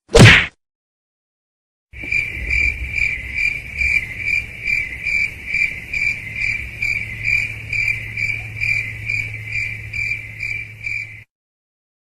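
Crickets chirping in a steady, even rhythm of about three chirps a second, the stock 'awkward silence' sound effect, which stops abruptly. Just before it comes a short loud burst.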